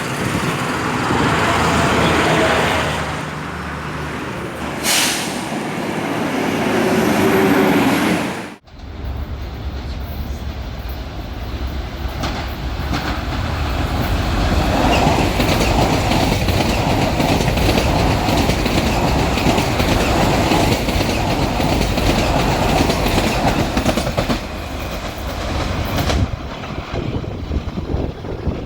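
Chinese-built electric commuter trains running through a station: wheels clattering over the rails, with brief wheel squeals in the first part. The sound cuts abruptly about a third of the way in to a second, longer stretch of steady train clatter.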